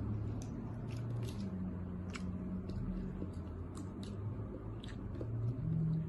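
People eating seafood by hand: chewing and mouth sounds with scattered small clicks and crackles a few times a second.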